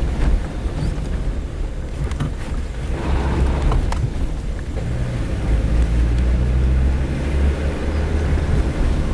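Suzuki Jimny under way, its engine a steady low drone that grows a little stronger about three seconds in, with a few faint clicks and rattles.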